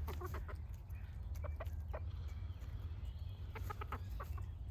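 Backyard hens clucking in short calls, in a few clusters, over a steady low rumble of wind on the microphone.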